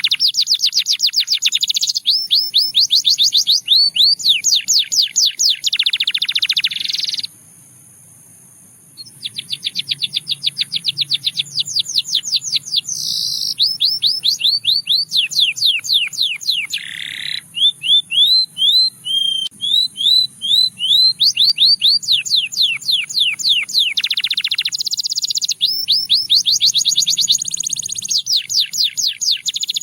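Canary singing, long trills of rapid repeated notes with a few buzzier phrases, broken by a pause of about two seconds near the quarter mark.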